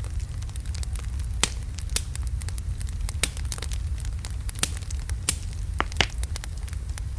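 Wood fire burning in a fireplace: a steady low rumble of flames with irregular sharp crackles and pops from the burning logs, a few louder pops near the middle and end.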